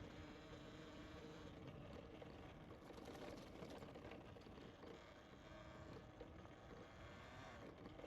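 Faint, steady rolling noise of a bicycle being ridden along a trail, with tyre and wind noise.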